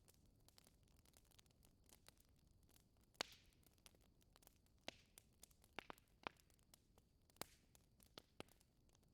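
Wood fire in a fireplace crackling faintly: irregular small snaps and pops over a soft hiss, with a sharper pop about three seconds in and several more in the second half.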